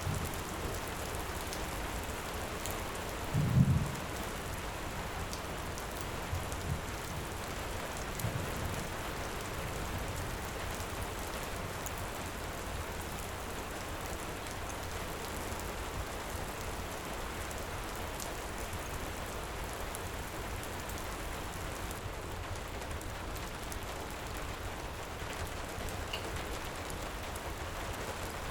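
Steady heavy rain, with faint crackles from a wood fire. About three and a half seconds in comes a short, low rumble of thunder, the loudest sound here, followed by two fainter ones a few seconds later.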